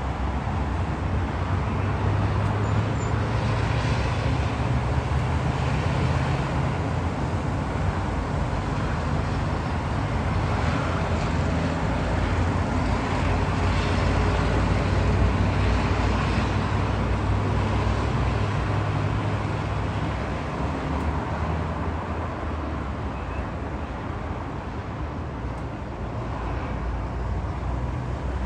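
Boeing 737-800's jet engines, a steady rumble with a low hum, growing a little louder toward the middle and easing off near the end.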